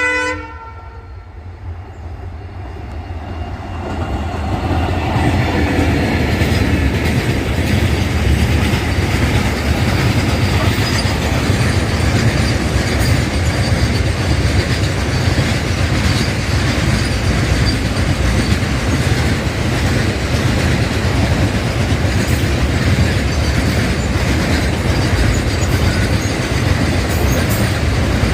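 A diesel locomotive horn cuts off just after the start. After a short lull, a double-stack container freight train passes close by, with a steady heavy rumble and wheels clattering over the rail joints.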